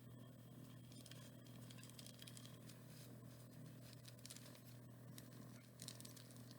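Near silence: faint rustling and scraping of string being tied around a cardboard tube, with scattered small clicks over a steady low hum.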